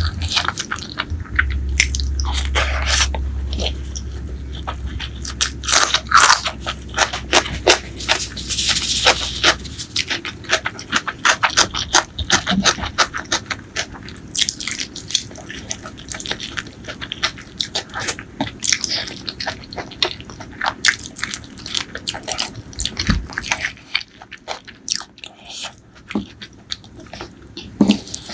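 Close-miked eating of spicy pork leg curry and rice: chewing and wet mouth smacks in a dense run of short clicks, with a low hum under the first ten seconds or so.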